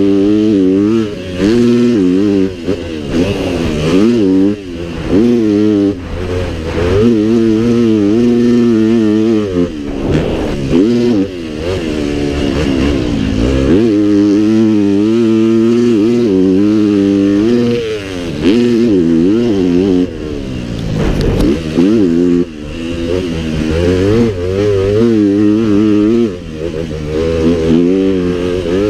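Dirt bike engine revving hard and backing off again and again, its pitch climbing and falling with the throttle over the whole stretch.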